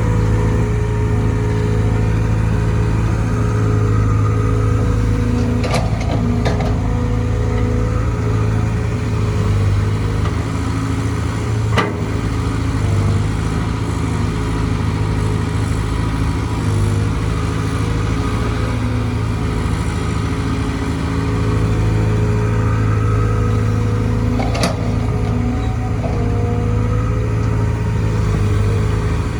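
Caterpillar C4.4 four-cylinder diesel engine of a Cat 320 GC excavator running at a steady speed, with a few brief clicks over it.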